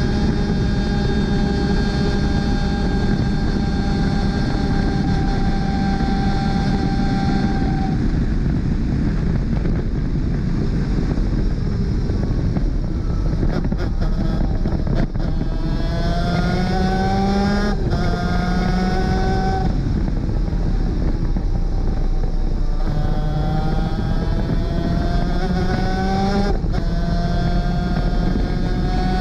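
Onboard sound of a 250cc two-stroke superkart engine at speed. The note holds steady at high revs for about eight seconds, then falls away. From about halfway it rises in repeated runs, each cut by a quick drop in pitch as the kart shifts up through the gears, over a steady wind rush.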